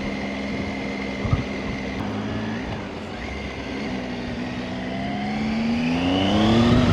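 Motorcycle engine running steadily with rumbling wind noise, then rising in pitch over the last few seconds as it accelerates. A short knock about a second in.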